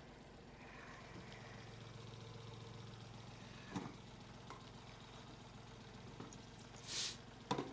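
Farm tractor engine idling steadily and faintly, with a few clicks and a brief hiss about seven seconds in.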